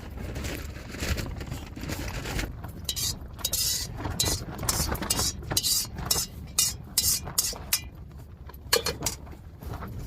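Spoon clinking and scraping in a dish during a meal, in a run of quick, irregular strokes from about two seconds in until near the end. Strong wind buffets the tent at the start.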